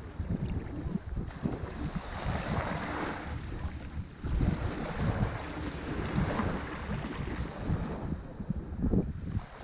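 Ocean waves breaking on a shore, the surf rising and falling in several surges, with wind rumbling on the microphone.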